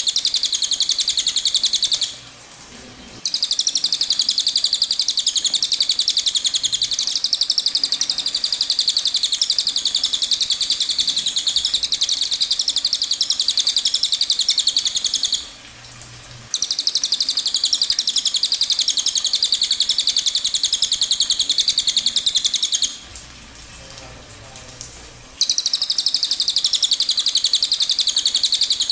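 A small songbird singing long, unbroken runs of rapid, high-pitched twittering, each lasting many seconds. The song breaks off briefly about two seconds in, again near the middle, and for a couple of seconds near the end.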